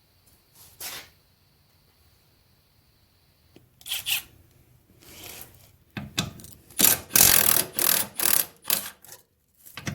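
Ratchet wrench working a bumper bolt loose, with metal clicking and rasping. It starts with a few separate strokes, then runs as a fast series of loud rasping bursts, about two to three a second, for around three seconds.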